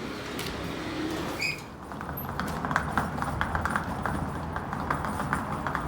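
A rapid, irregular run of light clicks and knocks that starts about two seconds in, over steady background noise, with a short high chirp just before it.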